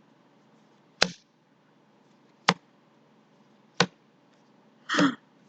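Three sharp single taps or clicks, about one every second and a half, marking each word in a phonics word-reading drill. A short breathy voice sound comes near the end.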